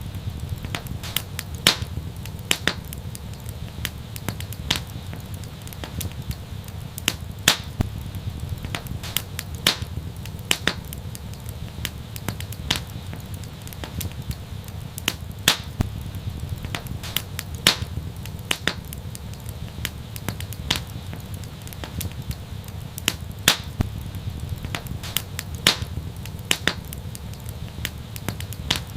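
Wood fire crackling and popping: irregular sharp snaps scattered over a steady low rumble of flames.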